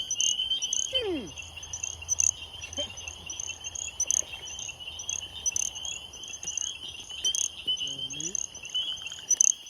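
Night chorus of calling frogs and insects: a steady high trill with short higher chirps repeating over it, and a few sharp clicks.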